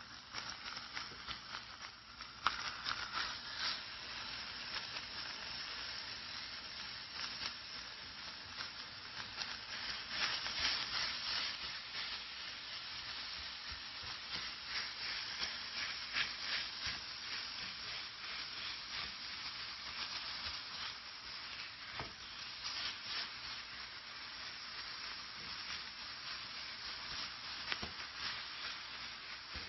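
Minced meat frying with diced onion and green pepper in a pan, sizzling and crackling steadily, with a spatula stirring and scraping the pan and a knock about two seconds in.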